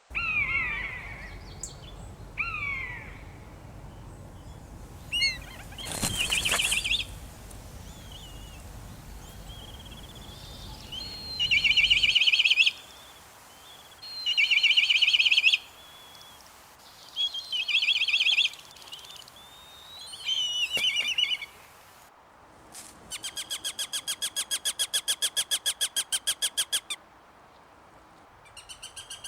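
Birds calling: short down-slurred notes, then several bursts of fast trilled song, then a long rapid rattle-like series of evenly spaced notes lasting a few seconds.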